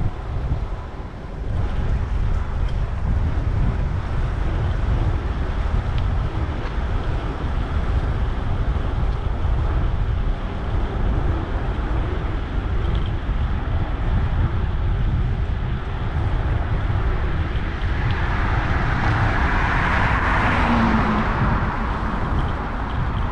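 Wind rumbling on the microphone of a moving rider in city traffic, with a vehicle passing close by, swelling and fading about three-quarters of the way through.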